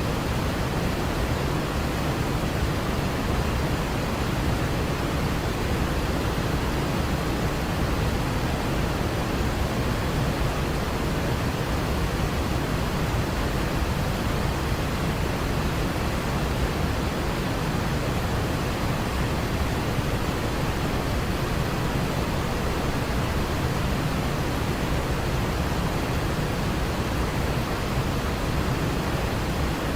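Waterfall: a steady, unbroken rush of falling water, heaviest in the low range and unchanging throughout.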